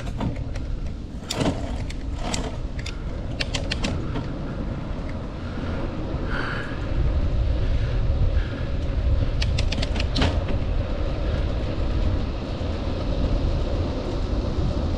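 Wind buffeting the microphone of a moving bicycle, a steady low rumble that grows louder about halfway through, with sharp rattling clicks from the bike now and then, mostly in the first few seconds and again a little past the middle.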